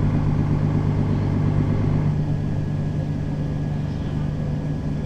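Mercedes-Benz Citaro facelift city bus's diesel engine running under way, a steady low drone with road noise, easing slightly about two seconds in.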